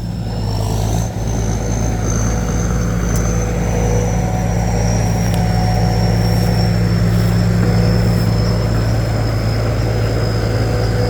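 Rice combine harvester's diesel engine and threshing machinery running steadily while cutting lodged rice: a deep, even drone with a thin high whine above it.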